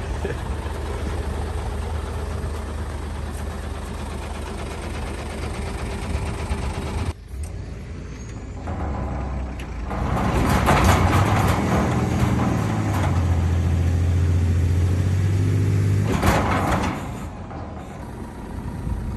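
Truck engine running steadily. It breaks off abruptly about seven seconds in, then comes back much louder for about six seconds, with a strong low engine drone and a rush of noise, before dropping back to a lower level.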